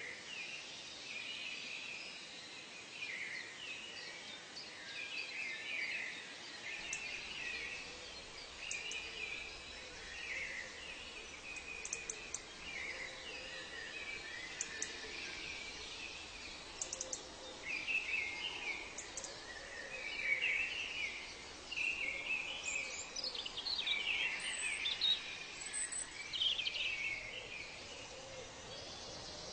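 Many birds chirping and calling over a steady background hiss, the calls busier and louder in the second half.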